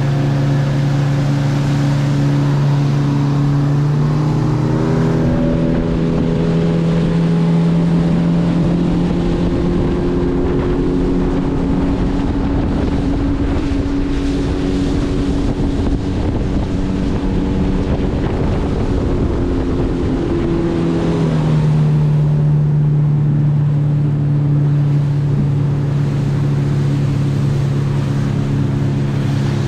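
Mariner outboard motor driving a small fishing boat along, with a steady engine note that shifts in pitch about five seconds in and again past twenty seconds. Water rush and wind on the microphone run underneath, heavier in the middle stretch.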